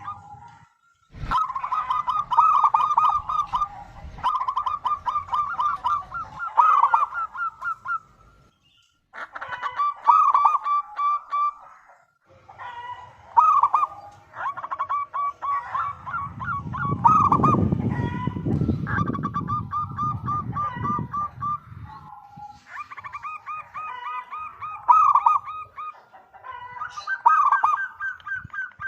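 Zebra doves (perkutut) cooing in repeated phrases of quick staccato notes, with short pauses between phrases. A low rumble sits under the calls for a few seconds in the middle.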